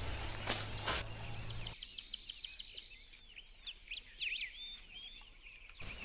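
Footsteps on grass over outdoor ambience, then birds chirping: a fast run of short repeated notes followed by varied chirps and whistles.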